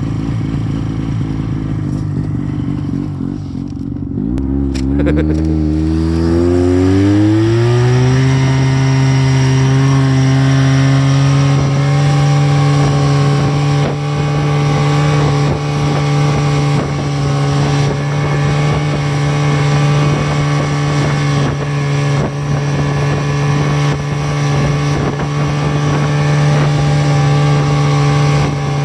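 Buran snowmobile's new two-stroke engine running at low speed, then rising smoothly in pitch over a few seconds from about four seconds in and holding a steady, higher speed.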